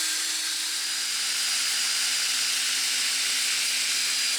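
Power tool spinning a small abrasive cleaning disc against rusty metal: a steady grinding hiss with a constant hum under it. The rust and corrosion are being ground off the knuckle's bearing seat before a new rear hub bearing goes in.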